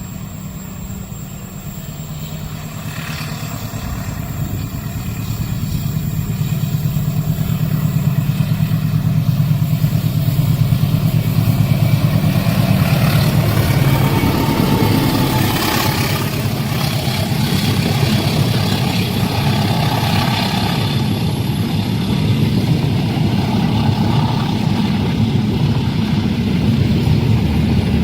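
Train passing a level crossing: a low rumble that grows louder over the first ten seconds, then holds steady with the noise of wheels on the rails.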